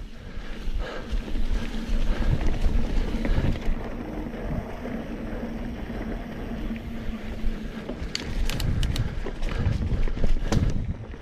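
Wind buffeting the microphone and mountain-bike tyres rolling over a dirt trail, with a faint steady hum and a cluster of sharp clicks and rattles near the end.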